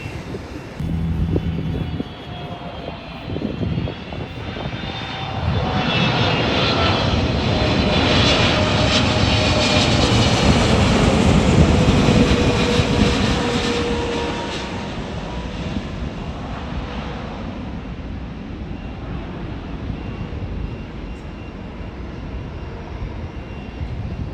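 A jet airliner passing close by. Its engine noise swells, is loudest about halfway through, then fades away, with a whine that slides down in pitch as it goes past.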